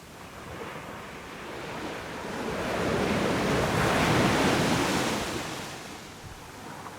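Sea waves breaking on a beach: one wave's wash swells up over about three seconds, peaks around four seconds in, then fades away.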